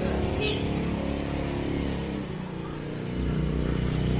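Motor vehicle engines running in street traffic, their tones steady. A deeper engine grows louder about three seconds in.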